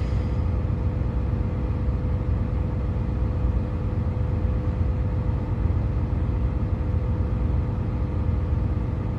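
Steady low rumble of a truck's engine running, heard from inside the cab, with a faint steady hum over it.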